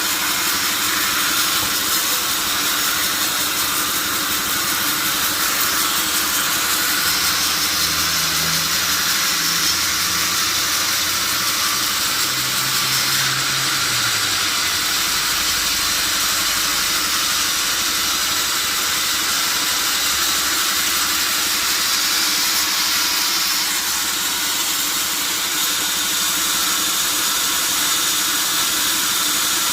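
Large sawmill saw cutting steadily through a log: a continuous, even hiss of the blade in the wood with no pauses.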